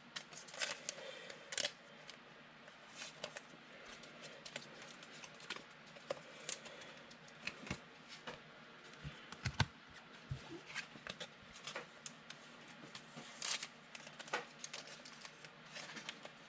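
Trading cards being handled and flipped through by hand: faint, irregular clicks and light rustles of card stock sliding and tapping.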